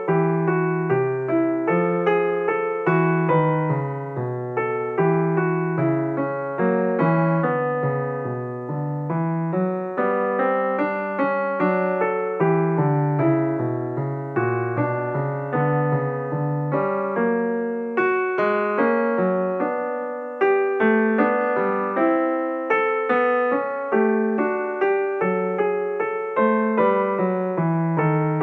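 Solo piano background music, a steady stream of gentle notes.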